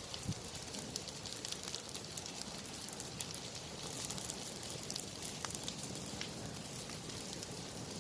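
Forest fire burning, crackling with many small sharp snaps and pops scattered over a steady hiss.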